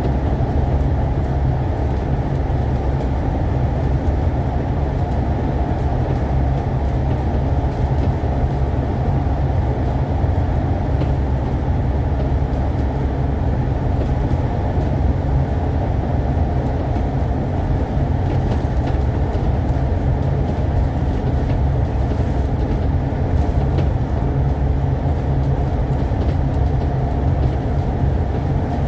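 Steady engine and road rumble of a KMB Alexander Dennis Enviro500 MMC double-decker bus under way, deep and unchanging.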